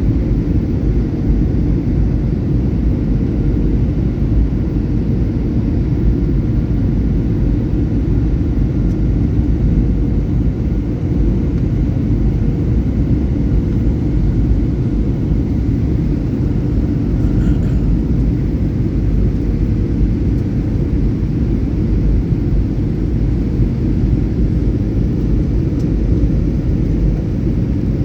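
Airliner's steady low engine and airflow rumble with a faint steady hum in it, unchanging throughout.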